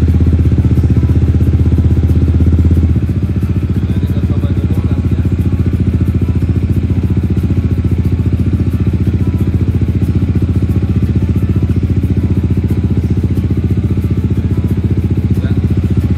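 Yamaha XMax 250 scooter's single-cylinder four-stroke engine idling steadily through an aftermarket exhaust built for a deep bass tone. It is a little louder for the first three seconds, then settles to a slightly lower, even idle.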